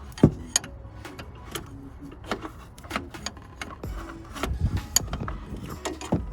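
Metal clinks and taps of an open-end wrench being worked onto a power steering banjo bolt in a cramped engine bay, scattered irregularly, the sharpest just after the start.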